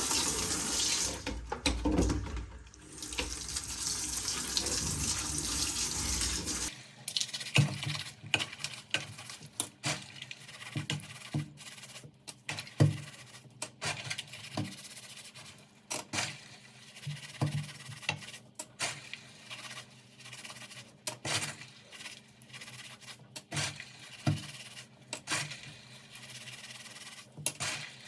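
Tap water running for the first several seconds, then cutting off abruptly, followed by a run of irregular light clicks and taps.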